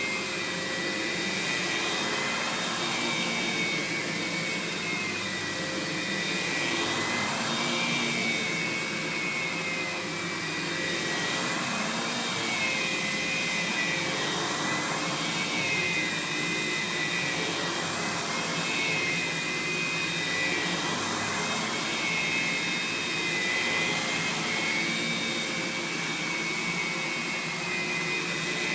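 Aerus Lux Guardian upright vacuum running with its suction motor and brush roll motor both on: a steady high whine that wavers slightly up and down in pitch every couple of seconds.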